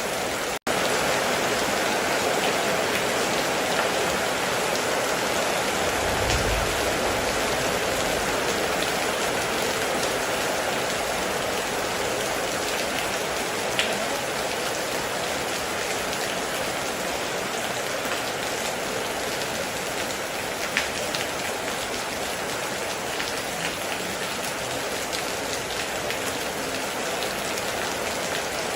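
Steady heavy rain falling, a dense even hiss of drops with a few sharper drips. There is a split-second gap in the sound just after the start and a brief low rumble about six seconds in.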